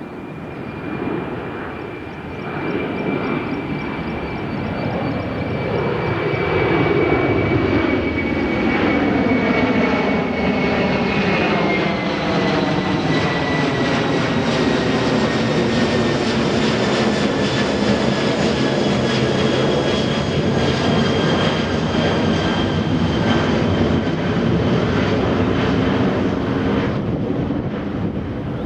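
Jet airliner's engines at takeoff thrust, building over the first several seconds and then holding loud and steady. A high whine in the engine sound drops in pitch about halfway through as the aircraft passes.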